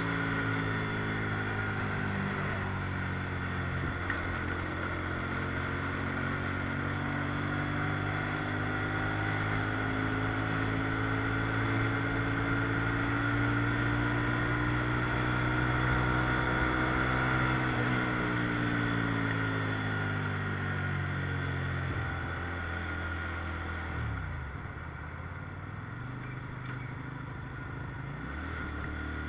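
Sport motorcycle engine running under way, with road and wind noise. Its note climbs slowly through the middle and falls away over several seconds as the bike slows, dips lowest about three-quarters through, then picks up again near the end.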